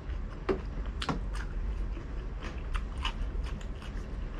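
Close-miked biting and chewing: a crisp bite into a raw green chili pepper, then crunchy, wet chewing with irregular crisp clicks, the loudest about half a second and a second in.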